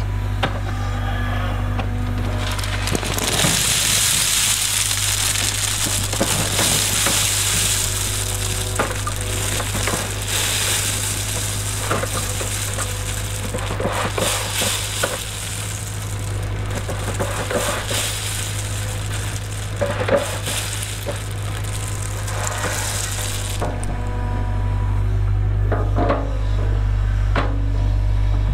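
Cat 307 excavator's diesel engine running steadily, with a long gritty crunching and scraping of stone and gravel from about three seconds in until a few seconds before the end.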